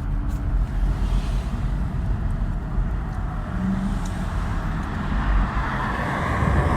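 Steady engine and road rumble of a car being driven.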